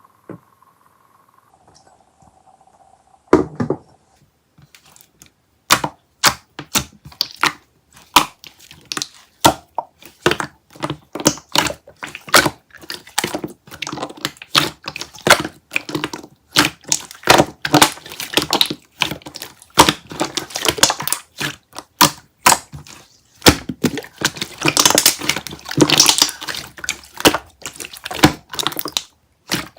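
Slime being squished and worked by hand, making rapid, irregular clicks and pops of trapped air. It is quiet for the first few seconds, then the pops come thick and fast, busiest near the end.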